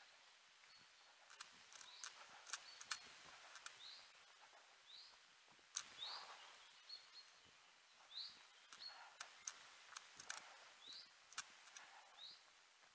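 Faint bird calls: a short rising chirp repeated about once a second, with scattered light clicks.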